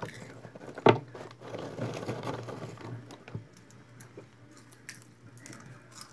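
Close-up crunching and chewing of popcorn: a sharp crunch about a second in, then a couple of seconds of chewing, with a soft knock and a few faint clicks after.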